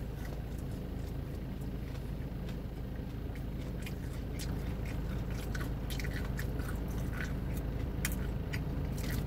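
A man chewing a mouthful of a buffalo chicken slider, a soft bread sandwich, with small wet clicks and smacks of the mouth scattered throughout. A steady low hum runs underneath.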